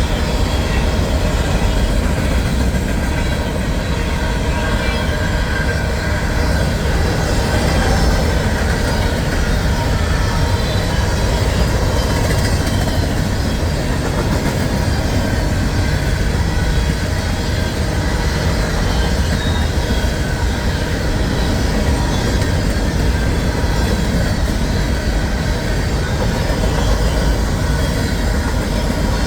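Empty coal hopper cars of a freight train rolling past: a steady rumble of steel wheels on rail, with some faint wheel squeal.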